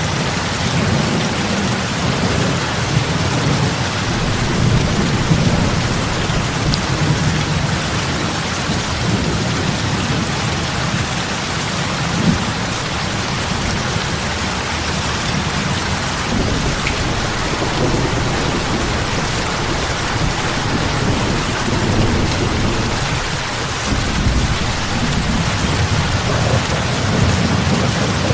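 Steady heavy rain falling on lake water, big drops splashing on the surface, with a low rumble underneath that swells and fades.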